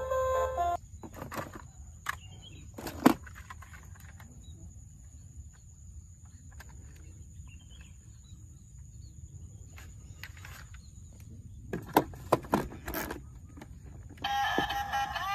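Scattered sharp clicks and knocks of small hard objects, likely die-cast toy cars being handled and set down, with a quick cluster of several knocks near the end. Background music stops just after the start and returns near the end.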